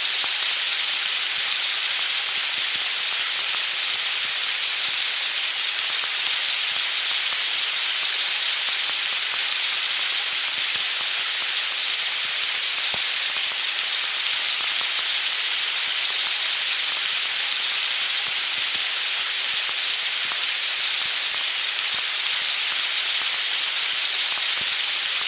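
Chicken sizzling on a grill: a steady, even hiss with faint scattered crackles.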